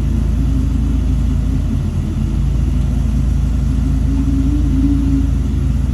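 Heavy earthmoving machine's diesel engine running steadily with a low rumble, working a little harder for a moment about four and a half seconds in.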